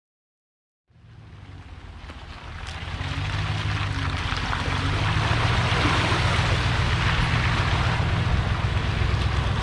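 A vehicle engine running steadily with loud rushing noise over it, fading up over the first few seconds.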